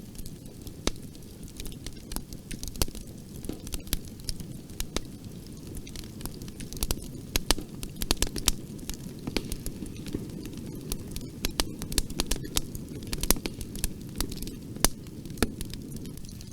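A bonfire burning with a steady low rumble and a stream of irregular sharp crackles and pops from the burning wood.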